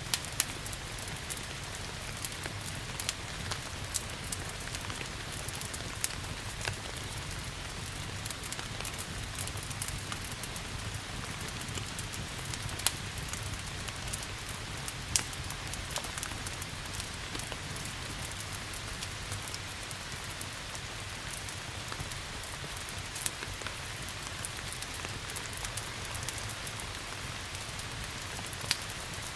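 Steady rain hiss mixed with a crackling wood fire, whose sharp pops come every few seconds.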